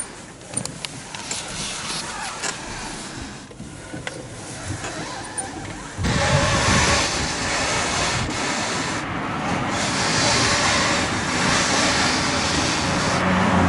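A vehicle running, with a rough, noisy sound that jumps sharply louder about six seconds in.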